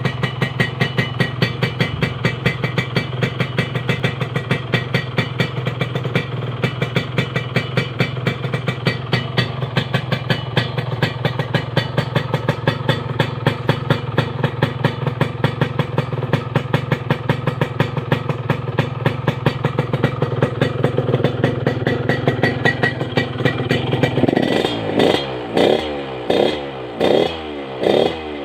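Yamaha RX-King's two-stroke single-cylinder engine running through an aftermarket chrome 'kolong Ninja' expansion-chamber exhaust, idling steadily. About four seconds from the end it is blipped through a quick series of short revs.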